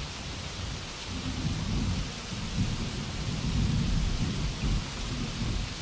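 Steady rainfall hissing, with a low rolling rumble of thunder underneath.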